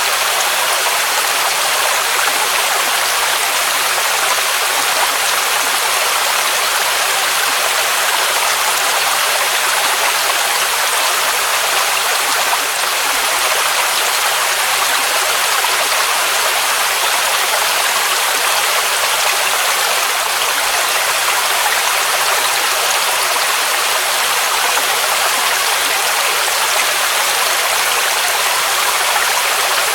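Waterfall rushing steadily, a constant hissy roar that is bright and thin in the bass, with no changes or events.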